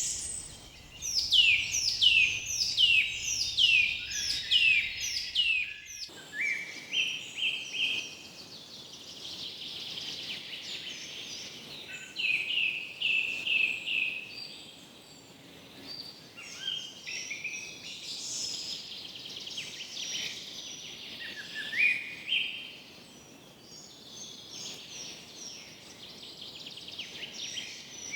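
Several forest birds singing: a bird gives a quick run of falling whistled notes, about two a second, for the first five seconds. After that come overlapping chirps, short rising notes and trills from other birds, over a faint steady background.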